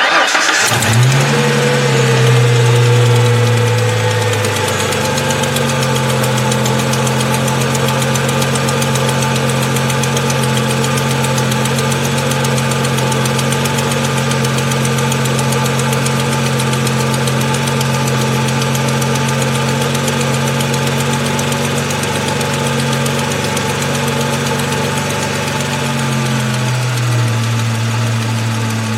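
2002 Ford Mustang's 3.8 V6 starting and running at a fast cold idle, with a tick on startup that the owner takes for an exhaust manifold leak rather than the valves. Near the end the idle drops to a lower, steady speed.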